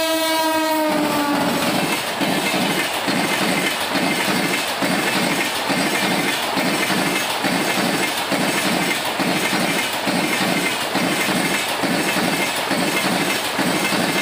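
Electric locomotive's horn blowing as it passes at speed, its pitch dropping as it goes by and cutting off about a second in. The express train's coaches then roll past, their wheels clattering over the rail joints in a steady rhythm about twice a second.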